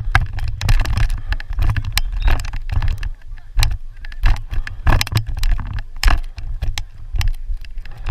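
Wind rumbling on the microphone, with many irregular sharp clacks and knocks and faint voices in the background.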